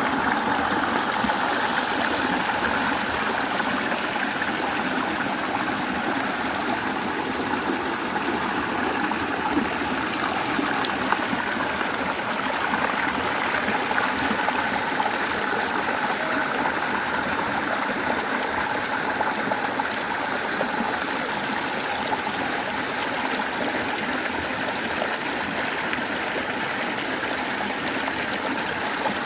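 Flowing water, like a stream running over rocks: a steady rushing and babbling that stays even throughout.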